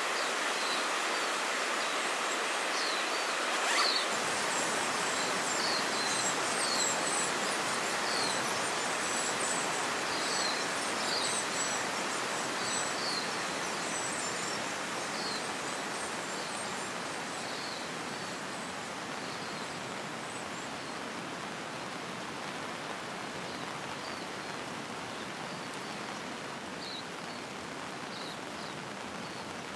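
Steady rush of a flowing river, with small birds chirping high above it, most often in the first half. The water noise eases slowly toward the end.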